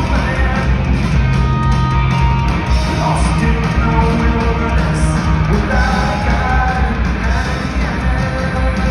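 Punk rock band playing live at loud concert volume: distorted electric guitars, bass and drums, with the singer's held vocal lines over them.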